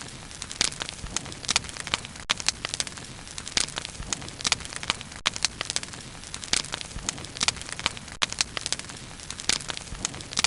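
Wood bonfire burning, with irregular sharp crackles and pops over a steady low rush of flame.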